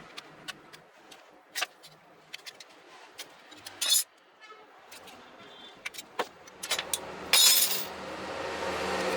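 Scattered light clicks and clinks of objects being handled, with a louder knock about four seconds in and a short loud rush of noise near the end, over a steady low hum that sets in near the end.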